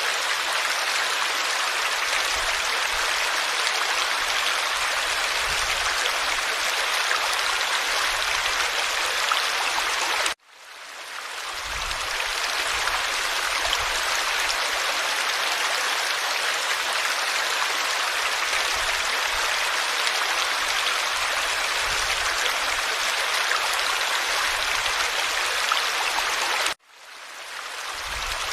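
Forest stream flowing, a steady rushing and babbling of water. It cuts out suddenly twice, about ten seconds in and near the end, and each time fades back in over a second or two.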